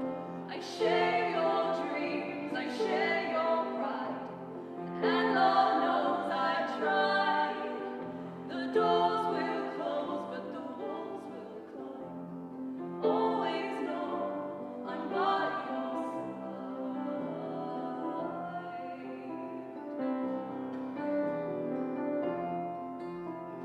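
Live music: sustained singing over instrumental accompaniment, with a new phrase starting every few seconds.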